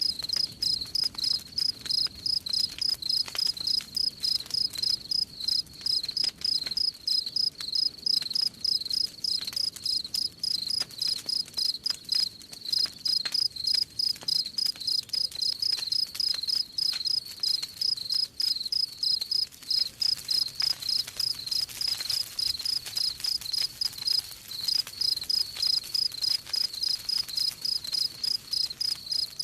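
Cricket chirping steadily and rhythmically, about three high chirps a second, over faint crackles of a wood campfire.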